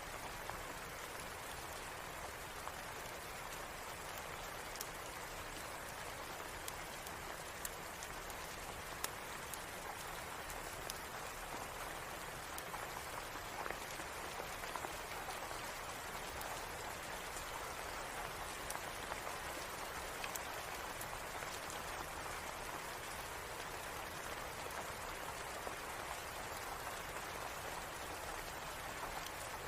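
Steady rain, an even hiss, with scattered sharp ticks and pops.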